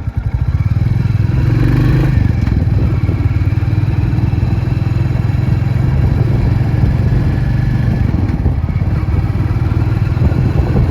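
Royal Enfield Classic Reborn's single-cylinder engine picking up revs in the first second, its separate thumps running together, then running steadily at higher revs.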